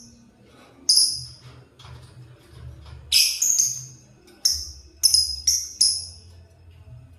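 Lovebirds giving sharp, shrill chirps, about seven short calls at irregular intervals, several coming close together in the second half.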